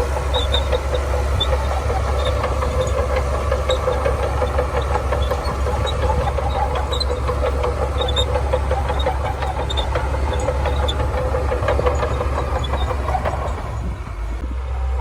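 Shantui crawler bulldozer working, its diesel engine running steadily under load with a rapid metallic clatter of the tracks. The sound eases briefly near the end.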